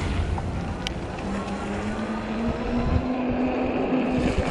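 Wind buffeting the microphone over the tyre noise of a 48 V fat-tire e-bike riding through slush. A steady hum comes in about a second in and rises slightly in pitch.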